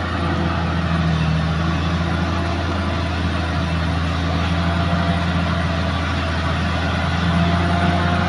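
Heavy earthmoving machine's diesel engine running steadily with a low, even hum.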